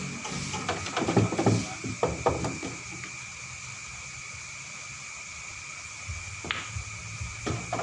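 Billiard balls clacking: a quick cluster of sharp clicks in the first two and a half seconds, then a single click about six and a half seconds in, over a steady high hum.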